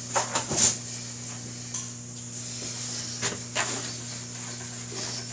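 Rubbing and handling noises in two short clusters, about a second in and again a little past the middle, over a steady low hum.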